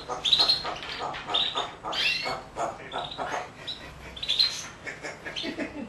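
African grey parrot vocalizing in a quick string of short calls and chatter, some with high notes that glide in pitch.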